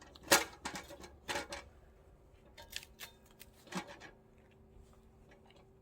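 Firewood being handled: two loud sharp knocks in the first second and a half, then a few lighter clicks.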